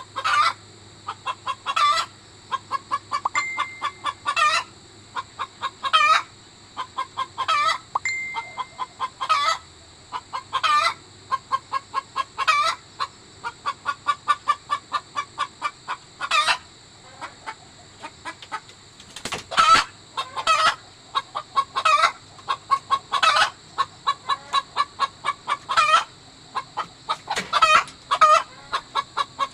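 Native chicken hen cackling: runs of quick clucks, each ending in a longer, louder squawk, repeated about every two seconds. This is the egg song that hens give around laying an egg. A faint steady high hiss runs underneath.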